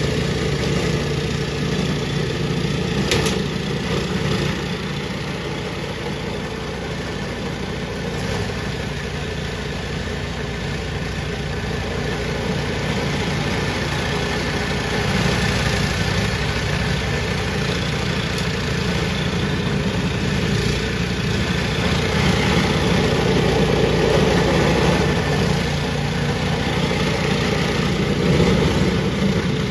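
Powermate 208cc single-cylinder overhead-valve snowblower engine running steadily, without the spitting and sputtering it had before its carburetor was cleaned. A sharp click sounds about three seconds in, and the engine gets a little louder in the last third.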